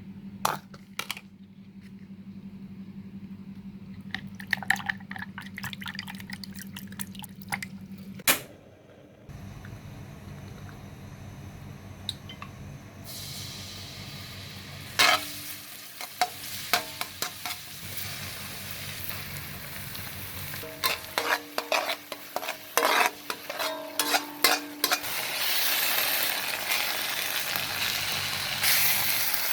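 Food frying in a pan while a utensil stirs and knocks against it, with clinks that ring briefly. The sizzle sets in about halfway through and grows louder near the end. A steady low hum runs through the first several seconds.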